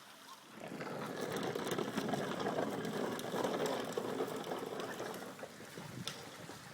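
Bicycle rolling along: tyre and road noise with a rapid fine clicking rattle, coming up about half a second in and easing off after about five seconds.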